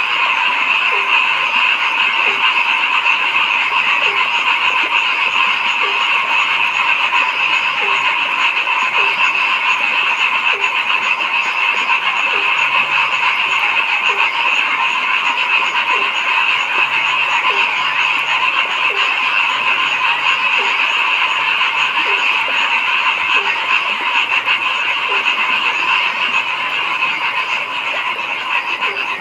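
Dense, steady chorus of many frogs calling at night, a continuous trilling din. Underneath it, one frog gives short, low croaks about once a second.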